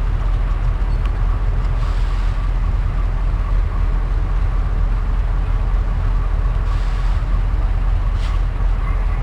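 A passenger train running: a loud, steady low rumble of the train in motion, heard from aboard.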